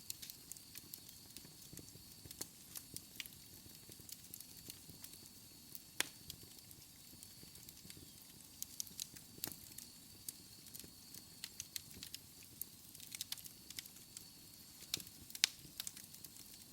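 Wood fire crackling in a fireplace: irregular small snaps and pops over a soft low rumble of the flames, with a few sharper pops standing out.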